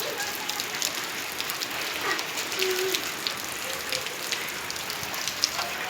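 Heavy rain pouring down, a steady hiss dotted with many close drop splashes.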